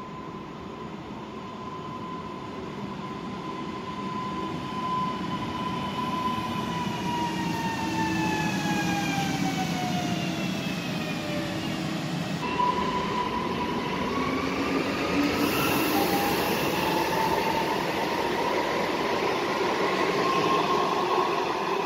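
Electric multiple unit approaching and running along the platform, growing louder over the first few seconds. The whine of its electric traction equipment falls slowly in pitch until about halfway through, then a new whine rises, over a steady rumble of wheels on rails.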